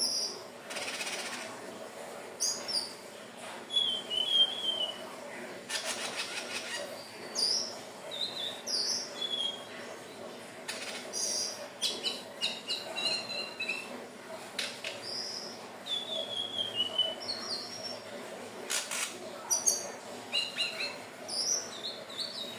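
Indigo flycatcher (sikatan ninon) singing: a string of short, high squeaky notes and brief falling twitters with short gaps between phrases. Scattered sharp clicks occur among the notes.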